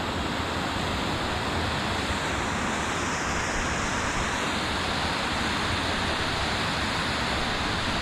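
Waterfall on a beck: a steady, unbroken rush of falling water.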